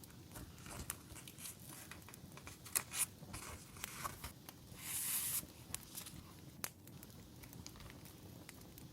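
Paper and plastic stationery packaging rustling and crinkling as it is handled, with a longer rustle about five seconds in, over the scattered pops and crackle of a campfire sound.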